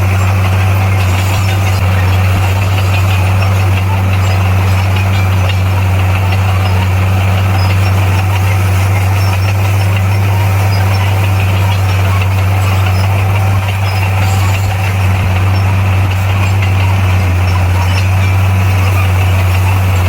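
Komatsu bulldozer's diesel engine running steadily at constant speed, a loud, even low drone.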